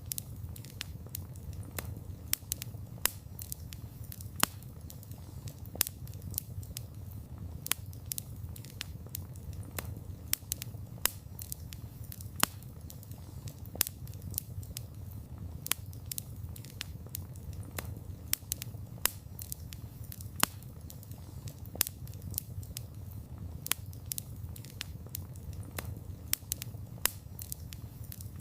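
Wood campfire burning: frequent sharp, irregular crackles and pops over a steady low rumble of the flames.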